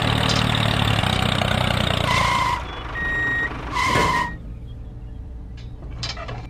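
Tractor engine running steadily, with a few electronic reversing beeps as it backs up. The engine sound cuts off about four seconds in, followed by a few light metallic clicks as the trailer hitch is coupled.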